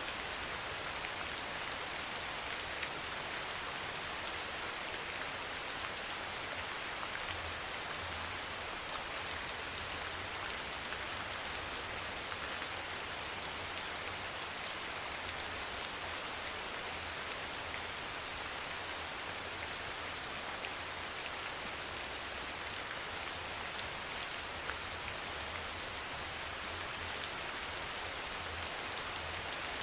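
Steady rain falling: an even hiss with scattered drop ticks and a faint, uneven low rumble underneath.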